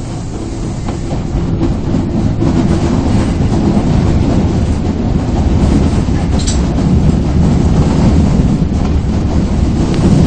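Osaka Metro Tanimachi Line subway train running between stations, heard from inside the car: a steady rumble of wheels on rail with faint clicks, growing a little louder, and a brief high wheel squeal about six seconds in.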